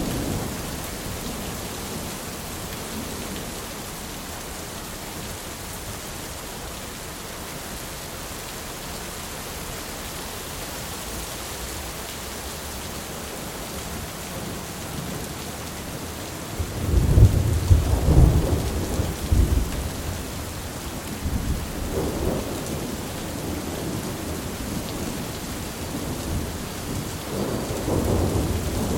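Thunderstorm: steady rain with thunder. A loud rumble of thunder comes about two-thirds of the way in, a smaller rumble follows a few seconds later, and another rumble builds near the end.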